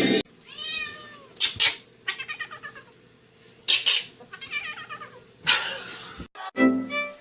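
A cat calling in a series of drawn-out, wavering meows, broken by several short harsh noisy bursts.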